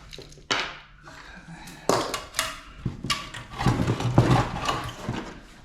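Clattering and scraping of metal parts and hand tools, several sharp knocks and rattles in a row, as an air-conditioning unit is pulled apart for scrap.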